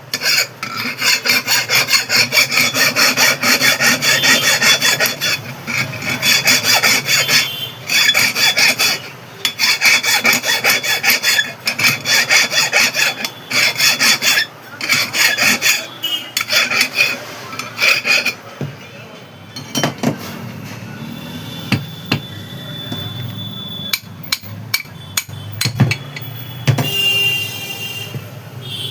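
Rapid back-and-forth scraping of a tool against the metal parts of a mixer grinder motor while the carbon brush is being worked free. The scraping stops after about eighteen seconds, giving way to quieter handling with a few sharp clicks and a short high squeak near the end.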